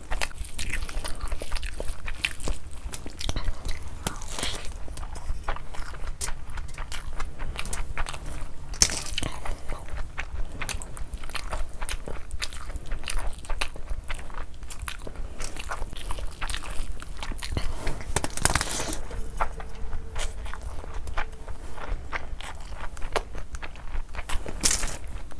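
Close-miked chewing of a mouthful of rice and mutton liver curry, with many small clicks, and fingers mixing rice into curry on the plate, over a steady low hum.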